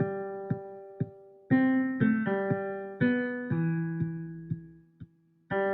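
A short jingle played back on a software grand piano: a few held notes, each struck and fading away, over light drum hits about every half second. The tune stops briefly near the end, then a new note begins.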